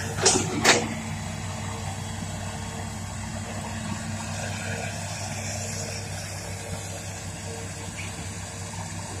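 Hitachi Zaxis200-5G excavator's Isuzu 6BG six-cylinder diesel running steadily, with two sharp knocks just after the start.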